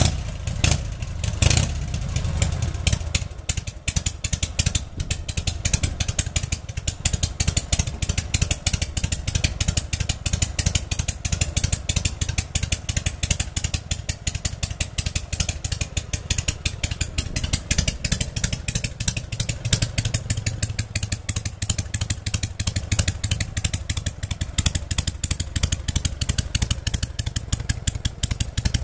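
Harley-Davidson Panhead V-twin motorcycle engine just after starting, with a loud bang about a second and a half in, then idling with a steady run of firing pulses.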